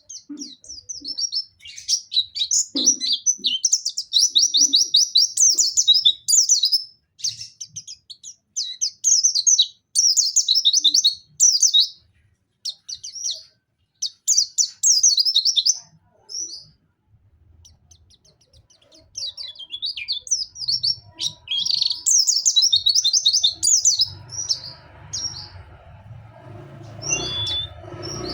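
Pleci (white-eye) songbird singing in rapid, high, trilling bursts of twittering phrases, pausing briefly a little past the middle. A low hum comes in near the end.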